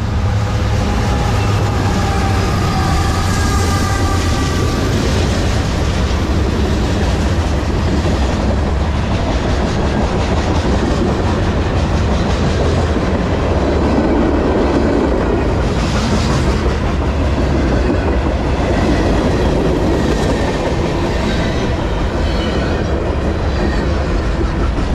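Freight train passing close by: the lead EMD SD70ACe and GE AC44C6M diesel locomotives rumble past at first, with a thin whine over the first few seconds, then a long string of freight cars rolls by with steady wheel clatter on the rails.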